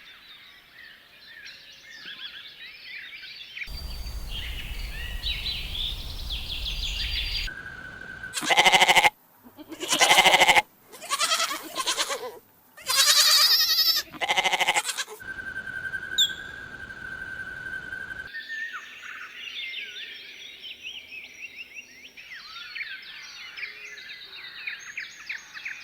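A run of edited animal sound clips. Dense high chirping opens and closes the run. In the middle, about 8 to 15 seconds in, come five loud bleating calls, each lasting a second or so.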